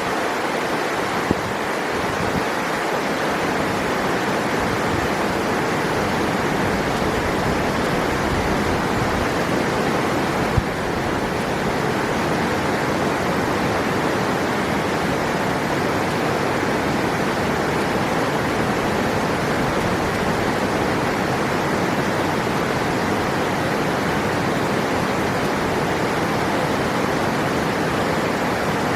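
River water rushing, a steady full hiss with no change.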